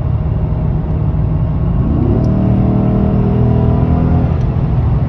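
Dodge Charger Scat Pack's 6.4-litre Hemi V8 running with a low rumble. About two seconds in, the engine note rises, holds for about two seconds, then falls away.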